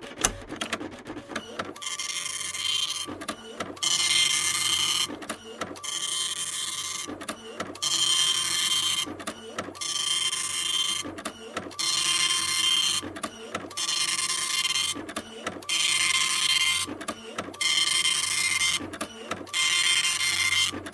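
A machine buzzing in repeated passes, each a second or so long with a short break between, about one every two seconds, with a steady whine running through each pass.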